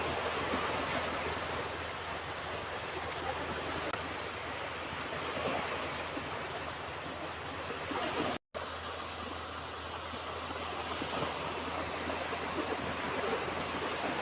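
Ocean surf washing on a beach in a steady, unbroken rush of waves. The sound drops out completely for a split second about eight seconds in.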